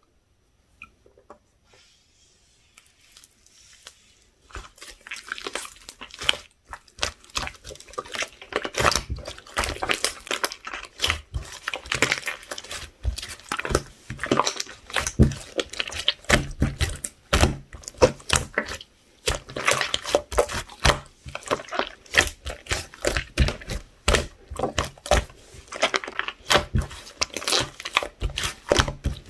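Fluffy pink slime with beads mixed in, squeezed and pressed by hand: rapid, irregular sticky clicks and pops that start about four seconds in and grow denser.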